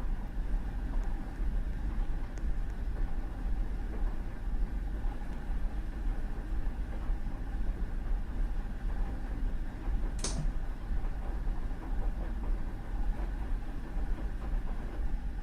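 Washing machine running with a steady low rumble and motor hum, and a brief sharp high-pitched click about ten seconds in.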